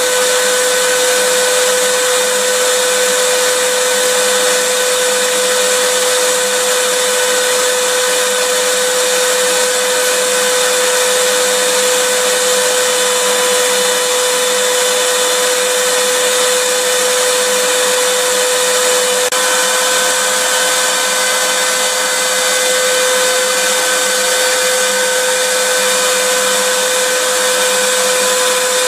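Vacuum cleaner motor running continuously: a loud, even rushing hiss with a steady motor whine over it, the whine shifting slightly about two-thirds of the way through.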